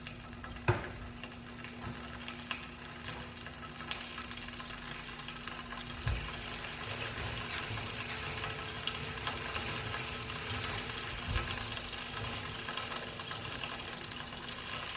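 Vegetables frying in a pan over a gas burner, a crackling sizzle that grows louder after a few seconds, over a steady low hum. A few dull knocks, the sharpest about a second in.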